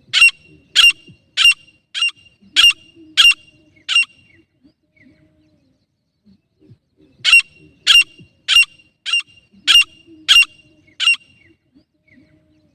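Female grey francolin calling: two series of seven loud, harsh calls, about one and a half calls a second, with a pause of about three seconds between the series.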